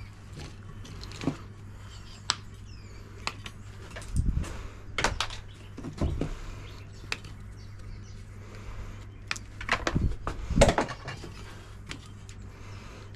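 Scattered clicks, snips and knocks of dishwasher wiring and plugs being cut and handled, the loudest cluster about ten seconds in, over a steady low hum.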